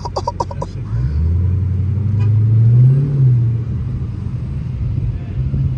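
Supercharged V8 of a Dodge Challenger SRT Hellcat Redeye rumbling low, rising in pitch for about two seconds as it pulls away, then easing back off.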